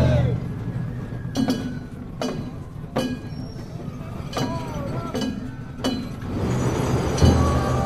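Festival percussion: sharp metallic clinks that ring briefly, about six strikes spaced roughly a second apart, with a heavy low drum beat near the end.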